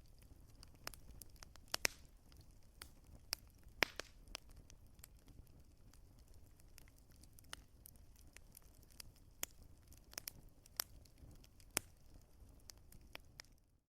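Wood fire burning in a fireplace, crackling with irregular sharp pops over a soft low rumble, a few pops louder than the rest. The sound cuts out abruptly just before the end.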